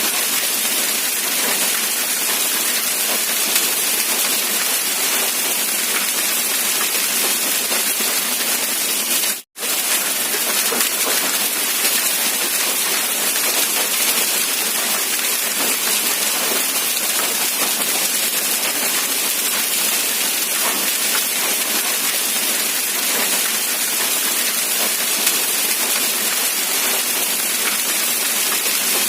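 Steady rain, a dense even hiss. It cuts out for an instant about nine and a half seconds in.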